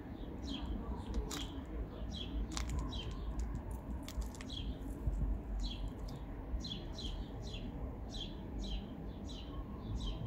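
Small birds chirping over and over: short high chirps that drop in pitch, about two a second, pausing briefly about halfway through, over a steady low rumble.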